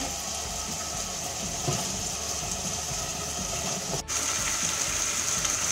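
Cubes of marinated chicken breast frying in hot oil with onion and garlic, a steady sizzle. The sound drops out for an instant about four seconds in.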